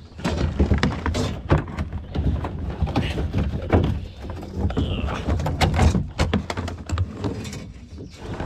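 Repeated knocks and thuds against a kayak, with wind rumbling on the microphone.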